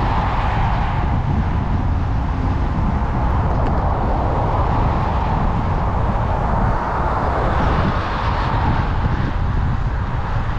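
Wind buffeting the microphone and tyre noise while riding an e-bike on a track: a steady rushing noise over a heavy low rumble.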